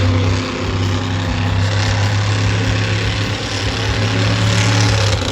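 Monster truck engine running loud with a steady low drone.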